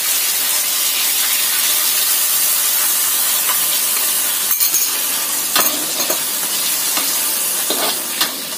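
Chicken stir-frying in a wok: steady sizzling, with a metal spatula scraping and clinking against the wok several times in the second half. About four seconds in, cornstarch slurry is poured in and the sizzle turns a little quieter.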